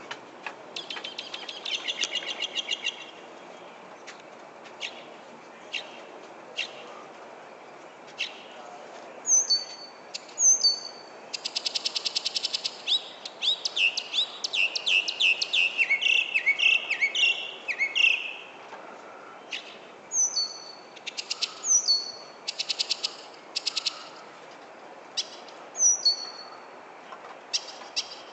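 A songbird singing a long, varied series of phrases: rapid rattling trills, sharp single clicks, paired high notes that drop in pitch, and a dense run of quick falling notes in the middle, with short pauses between phrases.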